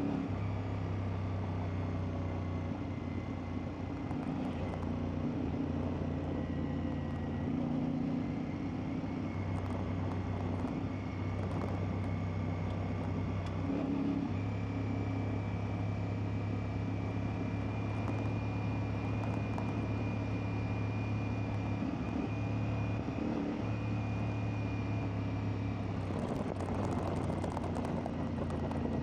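CFMoto 450MT's parallel-twin engine running at steady revs while riding, its note holding for several seconds at a time and shifting briefly as the throttle eases off and picks up again.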